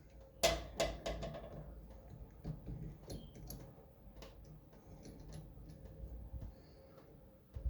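Tools and parts being handled: a sharp click about half a second in, then scattered lighter clicks and taps.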